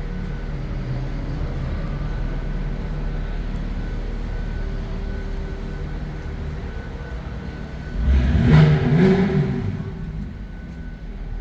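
Lamborghini Aventador's V12 running at a low, steady idle, then a louder rising rev about eight seconds in that fades away within two seconds.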